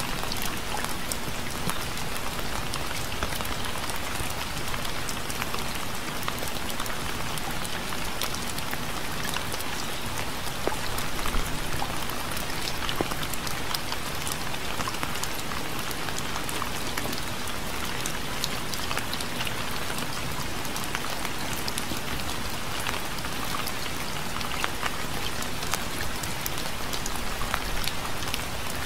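Steady rain falling, a dense even hiss with many separate drop ticks scattered through it.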